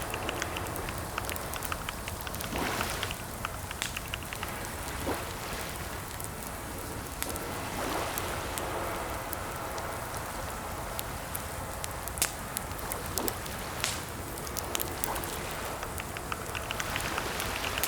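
Typing on a computer keyboard: irregular keystroke clicks in short runs, with a few louder key strikes, over a steady hiss.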